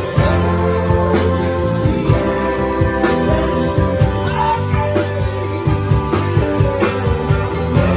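A live band playing a song: a singer over electric guitar and bass, with a steady beat.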